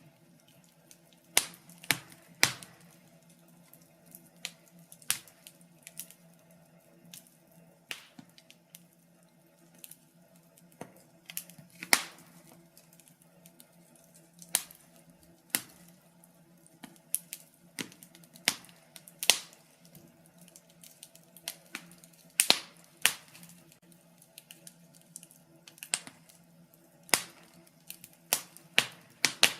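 Wood fire in a fireplace crackling, with sharp pops at irregular intervals, some single and some in quick clusters, over a faint steady low hum.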